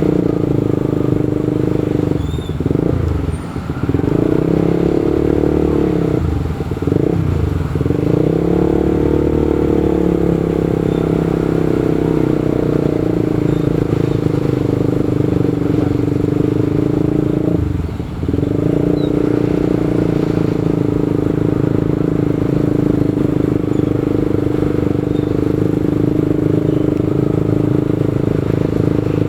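Motorcycle engine running steadily under way, its pitch and level dipping and climbing back as the throttle is eased off and reopened about two seconds in, again around six to seven seconds in, and once more near the eighteen-second mark.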